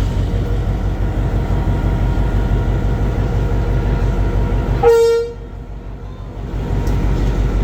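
A train sounds one short, pitched toot of its horn or whistle about five seconds in, over a steady low rumble.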